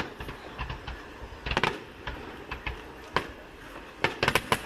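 Fireworks going off: sharp bangs and crackles, with a cluster about a second and a half in and a quick run of cracks near the end.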